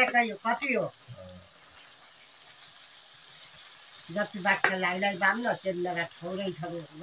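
Chicken pieces sizzling in hot oil in an iron kadai while a spoon stirs them. A voice sounds over the frying in the first second and again from about four seconds in.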